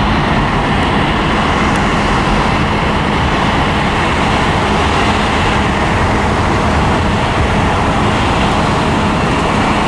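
Jet aircraft engines running: a loud, steady rushing noise with a low, even hum underneath.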